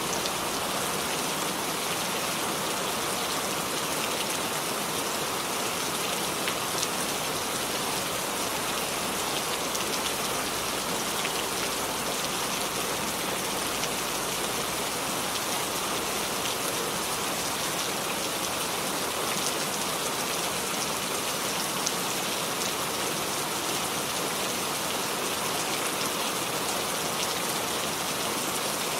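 Steady rain falling, an even hiss with the patter of many small drops striking surfaces.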